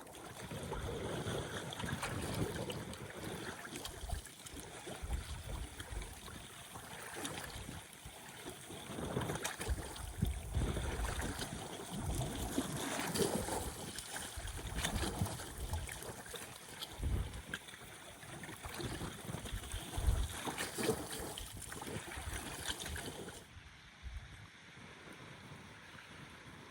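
Strong, gusty wind buffeting the microphone, with lake waves lapping at the shore underneath; the gusts drop away sharply near the end.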